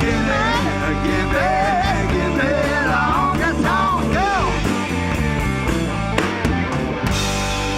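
Rock band playing live, with a lead melody bending and wavering in pitch over about the first half, above steady drums and bass.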